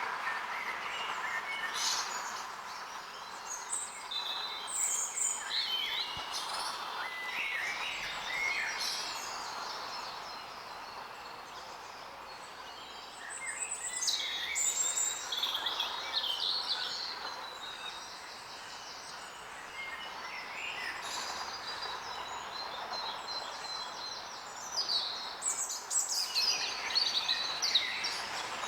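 Several small songbirds singing and calling, a mix of short varied chirps and quick trilling phrases, over a steady background hiss of outdoor noise.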